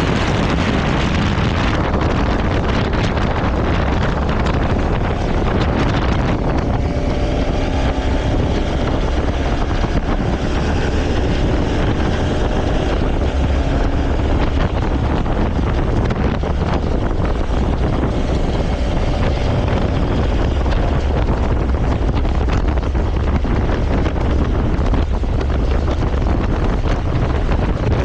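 Wind buffeting the microphone on a moving motorcycle, with the engine running steadily underneath. The rushing hiss eases about six seconds in, leaving the engine's hum more audible.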